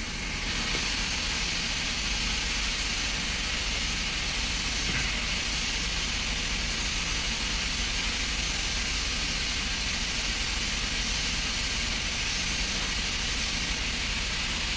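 Steady hiss over a low hum in the cabin of a BMW 520i whose engine is idling while the electronic oil level measurement runs.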